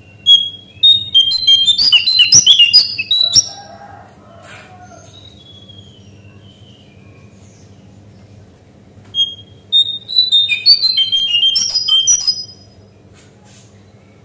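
Cingcoang coklat (lesser shortwing) singing: two bursts of fast, jumbled high chirping notes, each about three seconds long, with a pause of several seconds between them. A steady low hum runs underneath.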